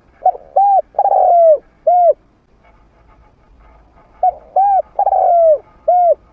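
Spotted dove cooing: two phrases of four hooting notes about four seconds apart, the third note of each long and falling. It is the territorial call of a trained male used as a decoy to draw in wild doves.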